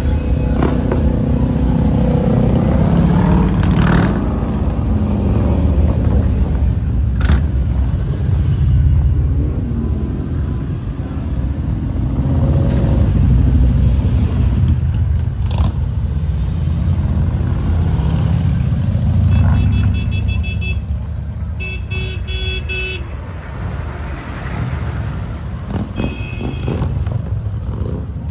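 Motorcycle engine running with a steady low rumble that rises and falls with the throttle, amid traffic. There are a few short horn toots around two-thirds of the way through and again near the end.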